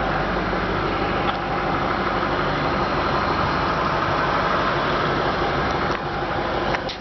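2006 Ford Mustang GT's 4.6-litre V8 idling steadily, heard through its dual exhaust. The level drops a little about a second before the end.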